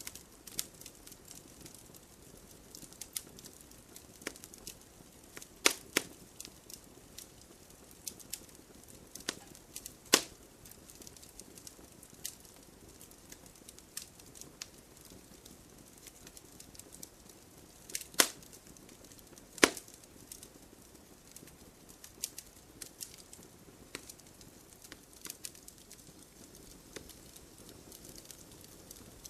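Wood fire crackling, with scattered sharp pops, a few of them loud, over a faint steady hiss.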